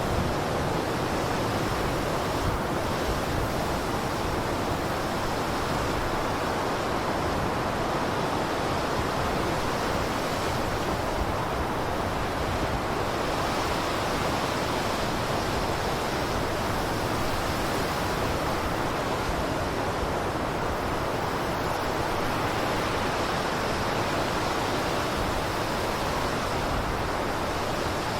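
Blizzard wind blowing steadily: an even noise with no gusts, lulls or breaks.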